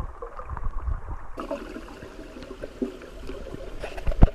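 Creek water sloshing and gurgling around the swimmers, muffled for the first second or so and clearer after that, with a sharp knock near the end.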